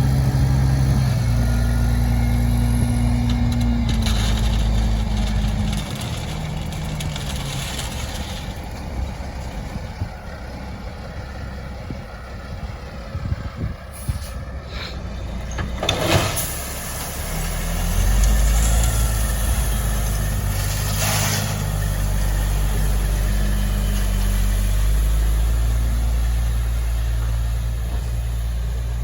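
Diesel dump truck's engine running, loud at first, easing off for several seconds, then working louder again with its pitch shifting. A short sharp air-brake hiss comes in the quieter stretch, about sixteen seconds in.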